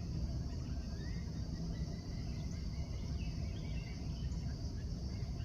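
Outdoor ambience: a steady low rumble and a steady high hiss, with a few faint bird chirps.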